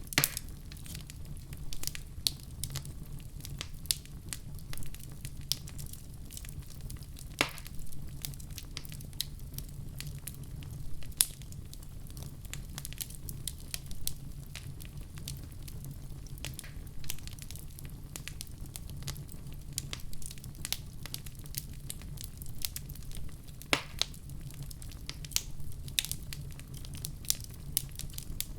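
Wood fire in a fireplace crackling, with irregular sharp pops over a steady low rumble of burning.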